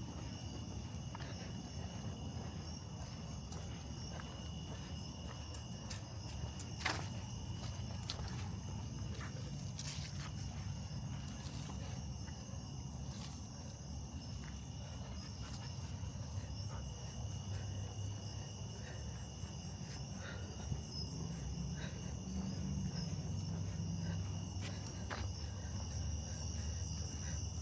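Steady chorus of night insects such as crickets, shrilling at several high pitches, over a low rumble. Scattered faint clicks and ticks are mixed in, with a slightly sharper click about 7 s and 10 s in.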